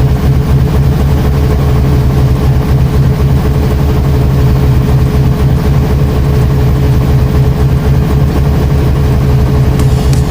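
Washing machine motor running steadily: a loud, even low hum with a constant tone above it.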